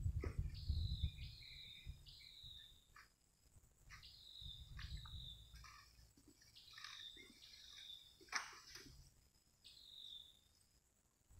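A bird calling repeatedly in short whistled notes that fall slightly in pitch, roughly one a second. A low rumble comes under it at the start and again midway, and there is a sharp snap about eight seconds in.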